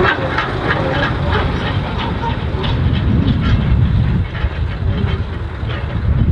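Narrow-gauge train running, with a steady low rumble and a quick, regular clicking through the first half.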